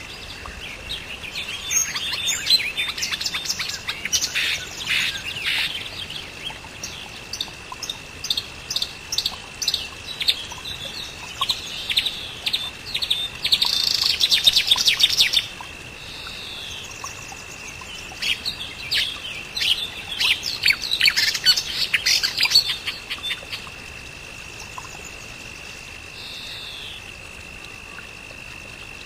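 Songbirds chirping and twittering in three busy bouts of rapid calls, then thinning out near the end to a few single falling whistles. A steady high-pitched drone runs underneath throughout.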